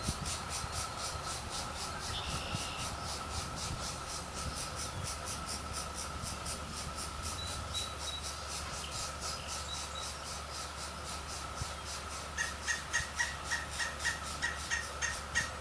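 Fast, even insect-like ticking and a steady high tone run throughout. About three-quarters of the way in, a run of about a dozen short calls at about four a second, plausibly from the pileated woodpeckers, is the loudest thing heard.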